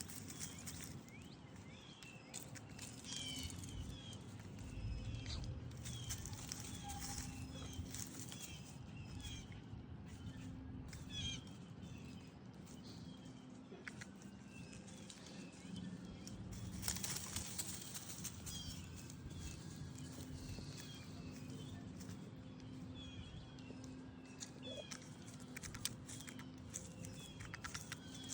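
Faint, short bird chirps repeated again and again, with a few sharp taps or clicks and an on-off low hum.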